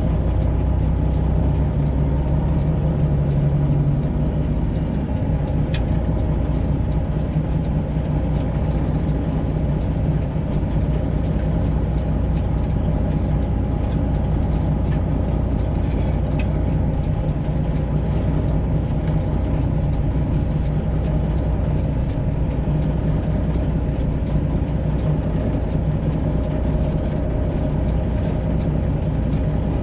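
Freightliner Classic XL semi-truck's Detroit Diesel 12.7-litre engine running steadily at low speed with an even, low drone.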